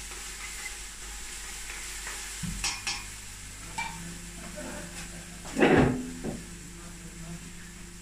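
Onions and whole spices sizzling in hot oil in a big stainless-steel pot, with a steady frying hiss. The pot is stirred, with a few light utensil knocks and one louder knock just before six seconds in. A low steady hum starts about two and a half seconds in.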